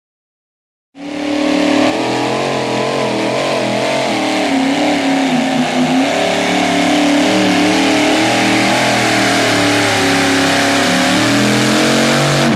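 A 2WD pulling truck's engine at full throttle during a pull, starting abruptly about a second in and running at high revs, its pitch wavering up and down throughout.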